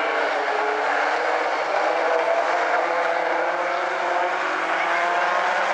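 A pack of late model stock cars running together on an oval track, several engines heard at once, their notes slowly rising as they pick up speed.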